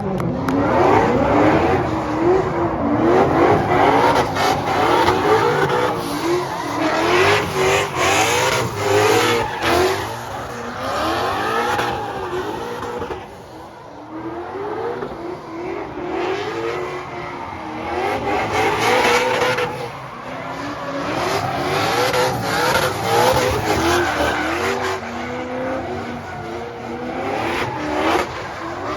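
Drift car engine revving hard, its pitch climbing and dropping again and again as it bounces off the throttle, with tyres squealing and skidding. The sound swells twice, dipping briefly about halfway through.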